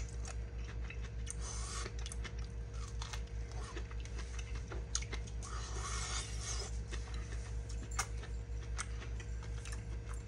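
A person chewing a mouthful of freshly microwaved corn on the cob, with many small crunching clicks, over a steady low hum.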